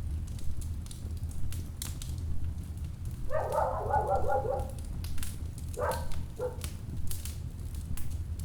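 Wood fire in a fireplace crackling, with irregular sharp pops over a low, steady rumble of the burning logs. About three seconds in, and again briefly near six seconds, a short fluttering pitched sound rises above the crackle.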